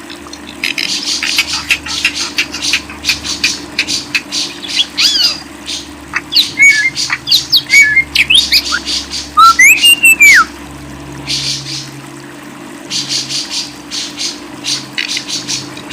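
Cage birds chattering in dense, rapid, harsh chirps. A few clear whistled notes rise and fall through the middle. The chattering pauses briefly in the second half, and a steady low hum runs underneath.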